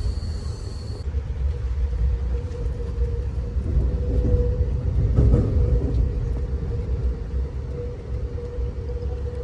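Amtrak Auto Train passenger car riding the rails at speed: a steady low rumble with a faint hum, swelling a little about halfway through.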